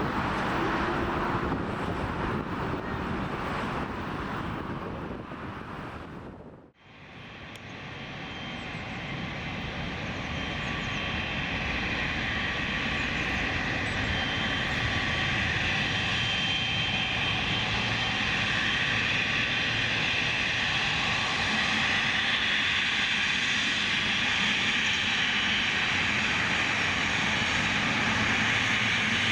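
Boeing 777 freighter jet engines: the first aircraft's engine noise fades away. About seven seconds in there is a brief drop to near silence, then a second 777's engines grow steadily louder as it approaches, with a steady high whine over the rumble.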